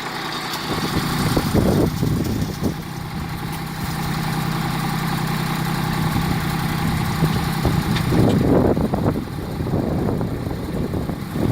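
Compact tractor's three-cylinder diesel engine running steadily, with rougher, louder uneven noise coming in about eight seconds in.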